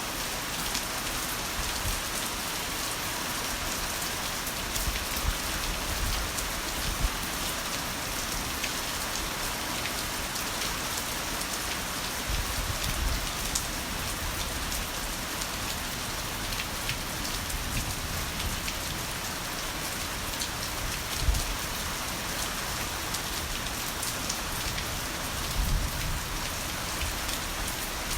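Heavy rain falling steadily, a dense hiss of drops on surfaces, with a few brief low thuds now and then.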